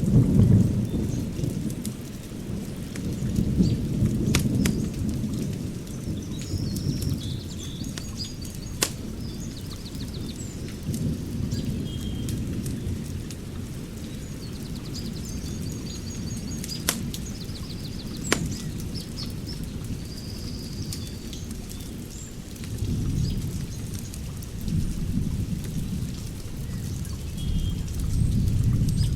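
Outdoor wood fire burning with a low rumble that swells and fades, a few sharp crackling pops, and birds chirping.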